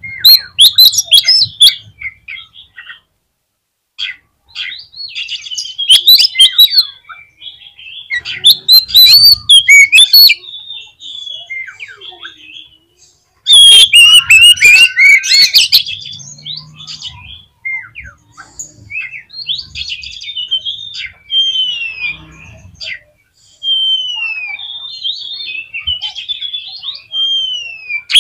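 Oriental magpie-robin (kacer) singing: loud bursts of rapid, varied whistles and harsh chattering notes, then in the second half a run of clear, spaced whistles that slide downward.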